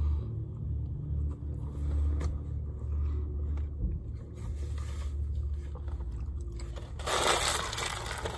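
Chewing and biting into a breakfast burrito close to the microphone, over a low steady rumble. About seven seconds in, a louder rustling scrape starts up.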